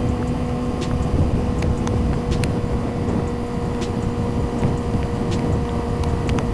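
Yamaha YZF-R6 inline-four engine running at a steady cruising speed, with a dense low wind rumble and scattered sharp ticks on the rider's microphone.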